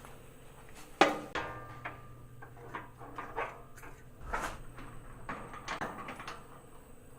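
Scattered metallic clinks and knocks of metal tools and parts being handled, the loudest about a second in with a brief ring, over a low steady hum.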